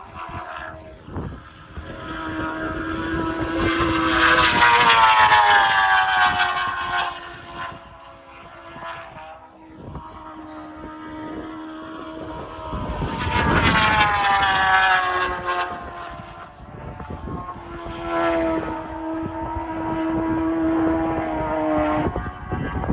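Superbike racing motorcycles passing at full racing speed. Each engine note builds, peaks as the bike goes by and falls away in pitch. Three passes: the loudest about five and fourteen seconds in, a weaker one near the end.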